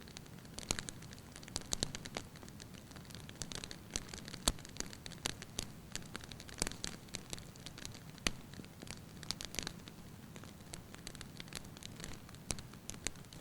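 Wood fire burning in a fireplace: logs crackling and popping with frequent sharp snaps, over a steady low rumble of the flames.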